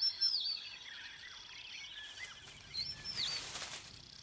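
Wild outdoor ambience of birds chirping in short, curved calls over a steady high trill, with a brief rush of hiss a little past the middle.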